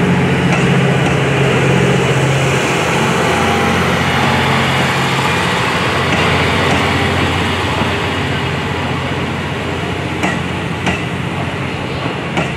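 Steam locomotive hissing steam loudly and steadily over a low hum, with a few sharp clicks near the end.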